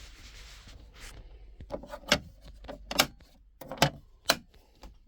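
Handling noise as heater parts and packaging are moved: light rustling, then four sharp clicks and knocks in the second half.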